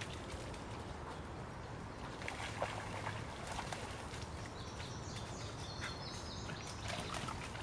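Steady outdoor background noise with a few faint clicks, and a run of short, high chirps from a bird in the second half.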